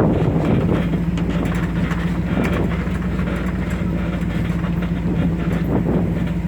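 Chevy's engine running with a steady low hum, with scattered light rattles over it.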